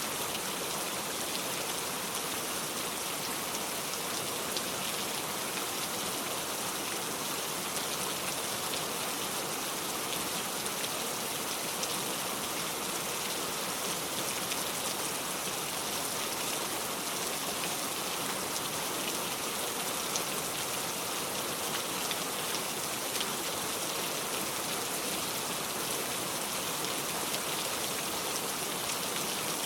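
Heavy rain drumming steadily on a metal roof: a dense, even hiss of drops with a fine patter and no thunder.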